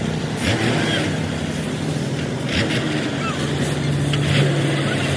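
An engine running steadily at a constant speed, with a few short knocks over it.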